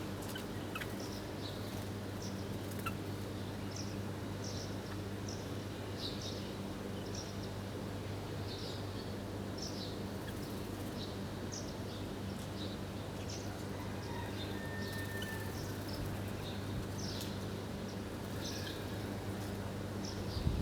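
Small birds chirping, a scatter of short high chirps one after another, over a steady low hum.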